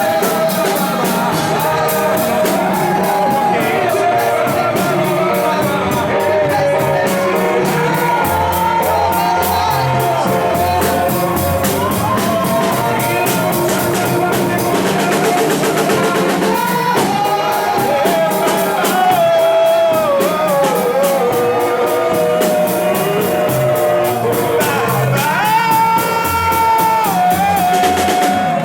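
Worship music: singing over a band with a drum kit keeping a steady beat.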